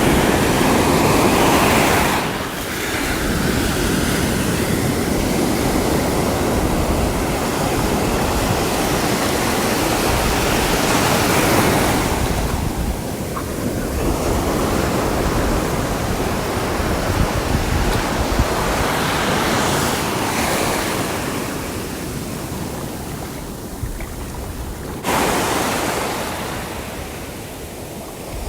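Sea waves breaking and washing on the shore, swelling and fading in several long surges, with a sudden louder surge near the end.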